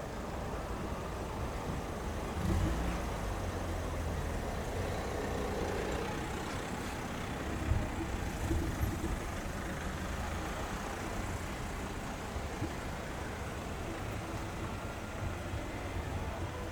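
Street traffic: a motor vehicle's engine running, with a low rumble that swells a couple of seconds in and again later, over a steady background hiss.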